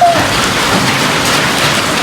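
Heavy hailstorm downpour: rain and small hail pelting steadily on the ground and nearby surfaces.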